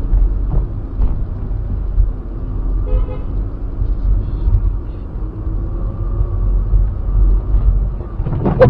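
Loud low rumble of a car driving, as picked up by a dashcam, with a car horn sounding near the end.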